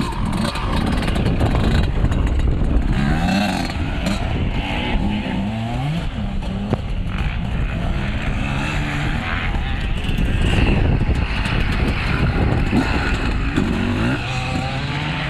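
Several vintage motocross motorcycles racing, their engines revving, the pitch climbing and dropping again and again over a steady low rumble.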